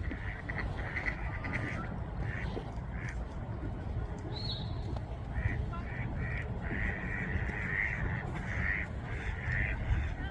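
Ducks quacking in repeated short calls, some run together near the middle, over a steady low rumble.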